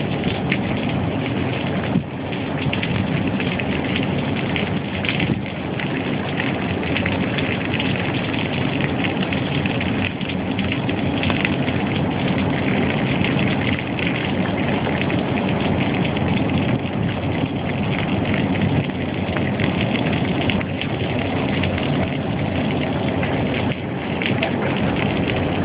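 Steady heavy rain pattering with many small ticks, over a low steady rumble, during a tornado-producing thunderstorm.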